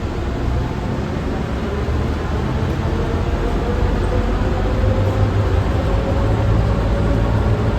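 Automated airport people-mover tram running with a steady rumble and a faint motor whine that rises slowly in pitch as it picks up speed.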